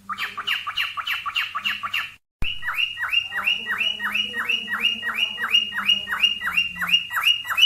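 Cockatiel giving its mating call: a fast, even run of high chirps, about four a second, each sliding down in pitch. The chirping breaks off briefly about two seconds in, then carries on at the same pace.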